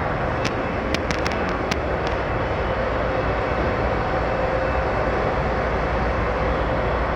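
D&S Quicksilver touchless automatic car wash running with a steady rushing noise and a faint steady hum. A few sharp clicks come in the first two seconds.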